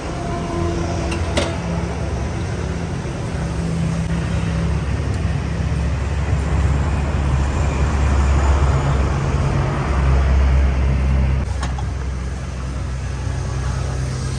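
Road traffic: a steady rumble of motor vehicle engines, swelling for a few seconds past the middle, with a couple of brief knocks.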